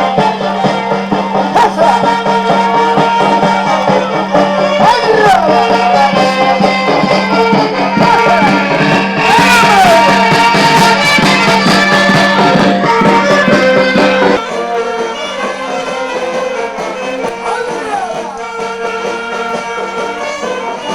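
Loud folk music with singing voices and rattle-like percussion over a steady low hum. It gets louder and brighter in the middle, then drops suddenly about fourteen seconds in.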